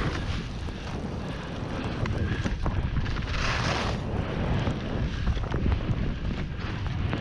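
Wind buffeting the microphone of a camera carried by a skier on the move, a steady low rumble. Skis hiss over the snow, louder about three and a half seconds in.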